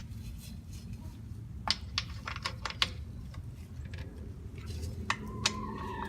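Scattered sharp metallic clicks and clinks of hand tools as the bolts are snugged down, over a steady low hum.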